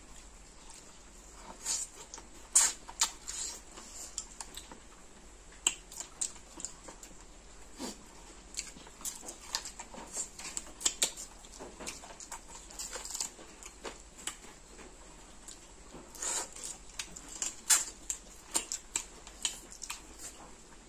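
Close-miked eating sounds: irregular wet chewing, lip smacks and finger-on-food clicks from people eating rice and chicken curry with their hands, with a crunch as a papad is bitten about halfway through.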